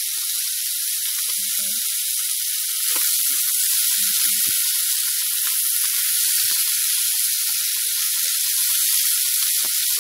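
Snow peas and straw mushrooms sizzling in hot oil in a frying pan: a steady high hiss that grows a little louder about three seconds in.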